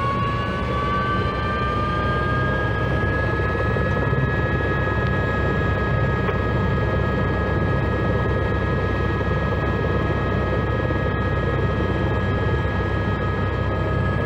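Airbus Squirrel helicopter running, a steady rotor and turbine roar with a high turbine whine that rises slightly in pitch over the first two seconds and then holds steady.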